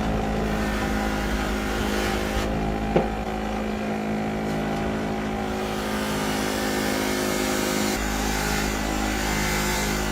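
An electric motor, such as a workshop power tool, running at steady speed, with one sharp click about three seconds in.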